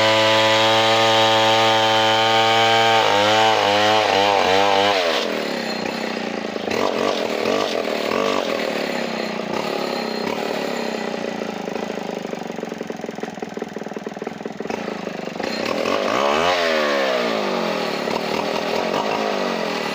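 Large two-stroke chainsaw running flat out at a steady pitch. About three seconds in, the pitch wavers up and down, and from about five seconds it cuts into a log, its note wandering under load. Near the end the pitch briefly dips and recovers.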